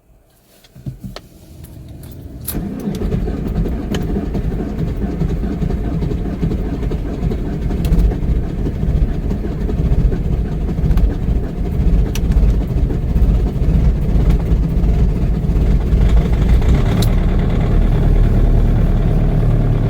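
VW Passat B5's 1.9 TDI four-cylinder turbodiesel cold-starting: the starter cranks for about a second and a half, the engine catches, then it settles into a steady idle.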